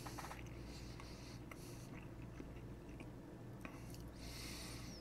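Faint closed-mouth chewing of a mouthful of egg omelet, with small scattered mouth clicks and a soft hiss about four seconds in.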